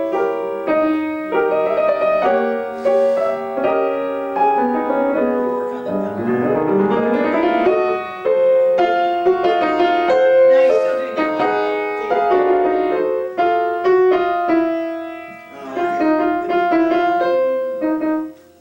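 Acoustic piano playing a classical piece, chords and quick passages with a fast run of notes about six seconds in; the playing stops abruptly just before the end.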